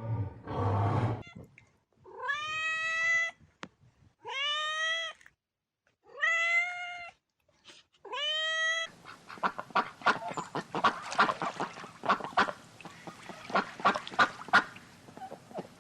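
A lion's roar trails off, then a domestic cat meows four times, each meow rising and then holding. From about nine seconds in, ducks quack in a fast, dense chatter.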